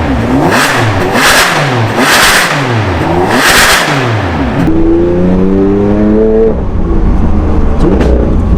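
Straight-piped 2020 Aston Martin Vantage's 4.0-litre twin-turbo V8, on a Quicksilver exhaust, blipped four times in quick succession, each rev dropping away sharply. About five seconds in comes a longer rev whose pitch climbs steadily, then it falls back to a low idle.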